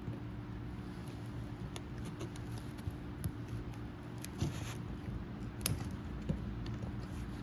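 Scattered light clicks and taps of hands handling and fitting seals onto a hydraulic cylinder part, more frequent in the second half, over a steady low hum.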